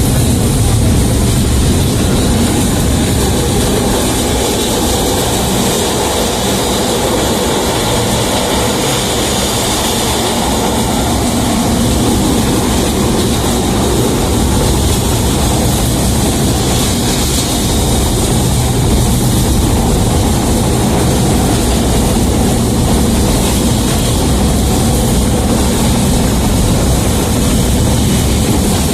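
Tatra T3A tram in motion: a steady, loud running noise of wheels on rails and the traction drive, heard on board, with no sudden events.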